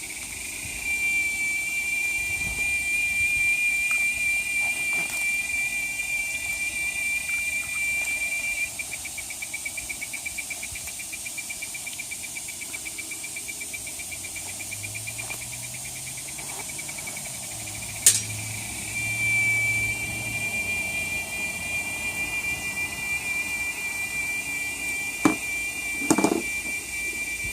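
A loud, high-pitched, fire-alarm-like whine of unidentified source, a single steady tone. About a third of the way in it breaks into rapid pulsing for several seconds. After a sharp click it returns to a steady tone.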